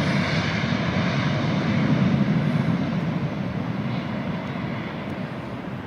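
Boeing 737's twin turbofan engines at takeoff thrust, a steady jet rumble that slowly fades as the airliner climbs away.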